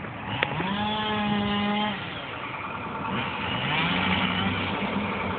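Vehicle engine revving up and holding its pitch, dropping off about two seconds in, then climbing again, like a car accelerating through its gears. A short click sounds near the start.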